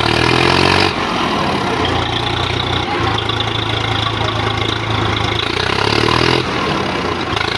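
Diesel tractor engine running hard and steady, with two louder, harsher surges in the first second and again near the end, as in a tractor tug-of-war pull.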